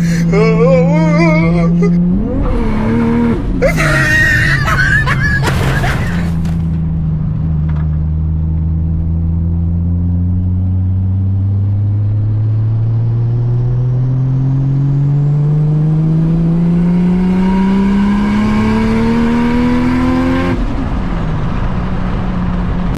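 Car engine pulling hard under acceleration, its pitch rising smoothly and steadily for about fourteen seconds before it cuts off suddenly near the end, as on a lift-off or gear change. Before the pull come a few seconds of loud, noisy bursts.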